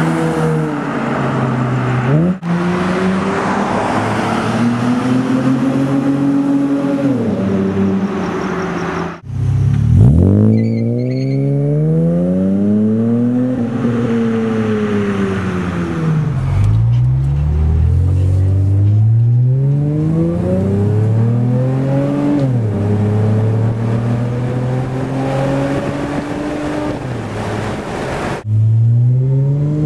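Acura TL V6 through a Strömung cat-back exhaust, the engine note climbing and falling several times as the car is revved and driven, with a few sudden drops in pitch.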